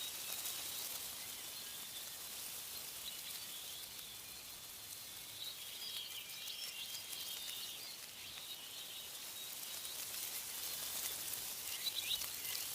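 Small songbirds chirping in short clusters, about halfway through and again near the end, over a steady high hiss of wind in tree leaves.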